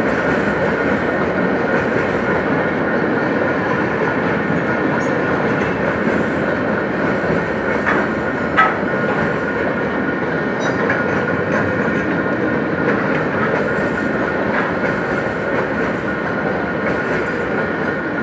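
Empty coal hopper wagons of a freight train rolling past, a steady rumble with wheels clacking on the rails. There is one sharp clank about eight and a half seconds in.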